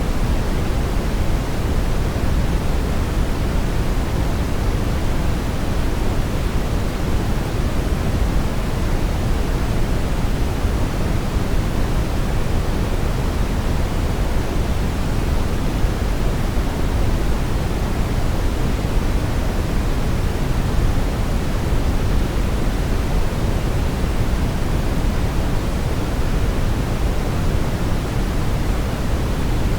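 Steady brown noise: an even, unbroken rushing hiss weighted toward the low end, with no rhythm or change.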